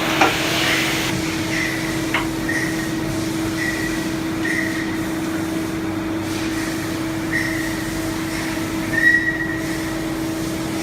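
CNC lathe running with a steady hum, short high-pitched squeals coming and going every second or so, and a sharp click near the start and another about two seconds in.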